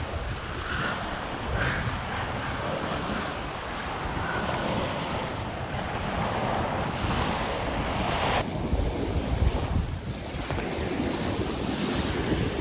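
Wind buffeting the microphone, a steady rushing noise with low rumbling gusts; the sound changes abruptly a little past eight seconds in.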